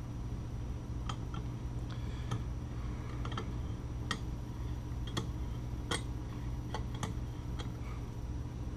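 Light metal clicks and taps, about a dozen at uneven intervals, from tools working on a motorcycle cylinder head while a valve spring is compressed with a C-clamp-style compressor. A steady low hum runs underneath.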